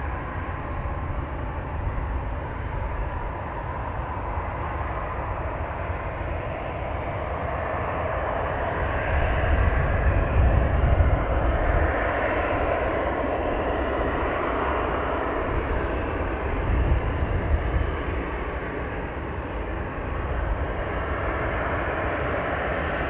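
Jet airliner engines running, the rush swelling to its loudest about ten seconds in and then holding steady, over gusty wind rumble on the microphone.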